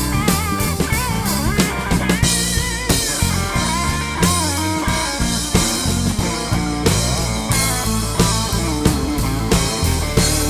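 Live rock-and-soul band playing an instrumental passage with no vocals. A drum kit keeps a steady beat under the bass, and a wavering lead melody line plays above.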